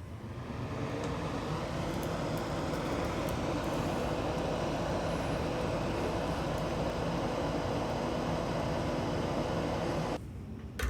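Soldering exhaust fan running with a steady whooshing hum. It builds up over the first couple of seconds and stops abruptly near the end.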